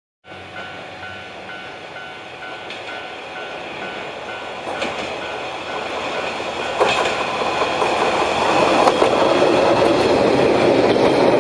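Watarase Keikoku Railway passenger train approaching and passing close by, its sound growing steadily louder to its loudest near the end, with wheels clacking over rail joints. A faint steady beeping tone pulses through the first half.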